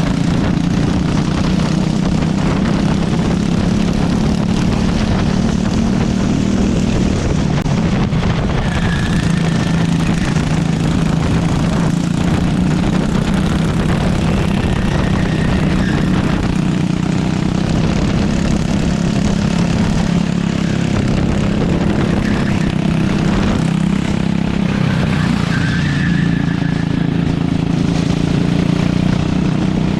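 Go-kart engine running hard at race pace, its pitch rising and falling as it accelerates and slows through the laps. A few short high-pitched squeals come through now and then.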